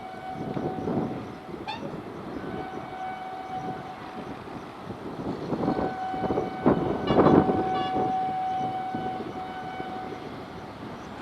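Train running with a rough rumble and gusts of noise, and a steady high tone with overtones that sounds three times, the longest for about four seconds in the second half.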